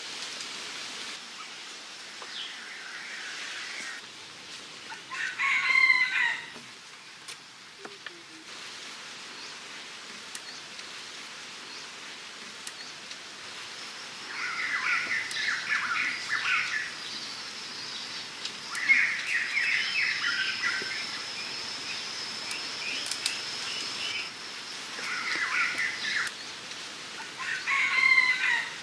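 Birds calling: several bursts of chattering calls, the loudest about six seconds in and near the end, with a thin steady high whine through the middle.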